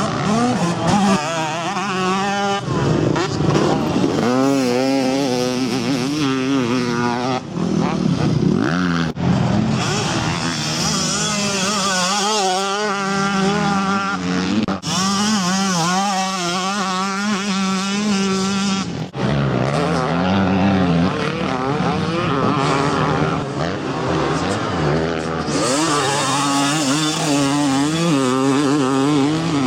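Two-stroke motocross bike engines revving, their pitch rising and falling with the throttle. The sound changes abruptly several times as it cuts from one bike to another.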